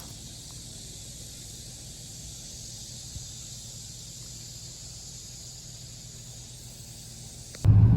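Steady outdoor ambience with a high, even hiss like insects calling, over a faint low rumble. Near the end it cuts off suddenly to a much louder low rumble.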